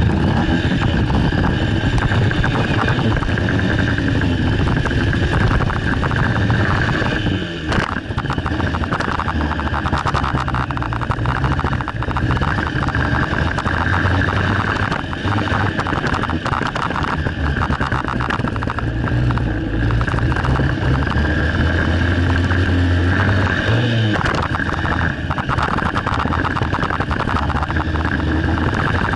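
Honda CRF230 dirt bike's single-cylinder four-stroke engine being ridden hard, its revs rising and falling continuously, with brief drops in engine note about eight seconds in and again later.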